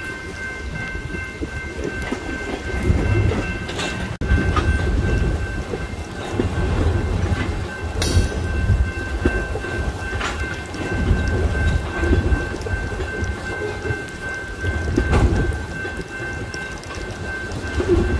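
Loaded tank cars of a freight train rolling through a grade crossing: a low, uneven rumble of wheels on the rails with repeated clunks, while the crossing bell rings steadily and rain falls.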